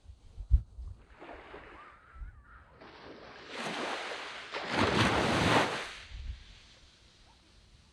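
Waves washing onto a sand beach: a wash of surf swells about three seconds in, peaks around five seconds, then fades away. A brief low thump comes near the start.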